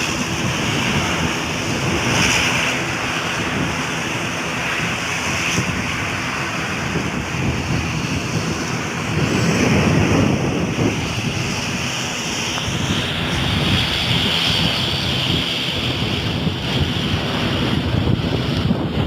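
Wind buffeting the microphone over a steady hissing roar, with a stronger low gust about nine to eleven seconds in.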